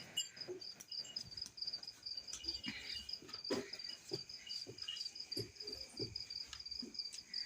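Crickets chirping steadily in a high, pulsing trill, with faint scattered knocks and rustles underneath.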